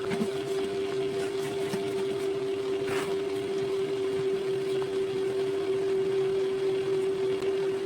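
Small electric motor of a rechargeable fan running with a steady hum, with a brief click about three seconds in.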